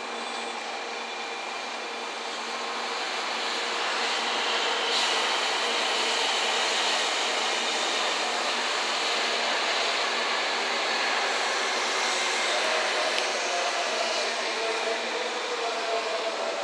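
923-type Shinkansen inspection train 'Doctor Yellow' running slowly past as it enters the station: a steady rush of wheels and running gear on the rails with thin steady whining tones in it, growing louder about four seconds in and holding there.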